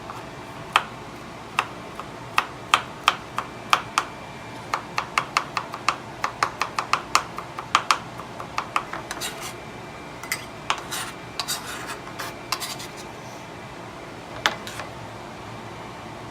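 Kitchen knife chopping garlic cloves on a cutting board: sharp, uneven knocks of the blade, at about three or four a second through the middle, thinning out towards the end, with some scraping between them.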